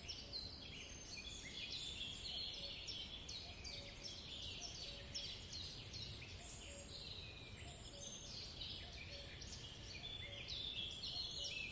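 Forest ambience: many small birds chirping and singing over a soft, steady background hiss.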